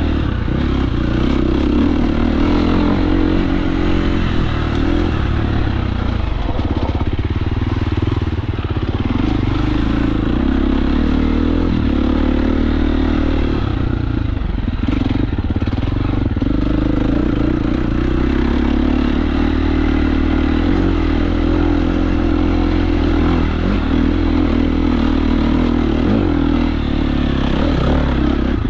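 KTM 350 SX-F single-cylinder four-stroke dirt bike engine being ridden on trail, the revs rising and falling with the throttle. It eases off briefly about eight seconds in and again around halfway, under a haze of wind and chassis clatter.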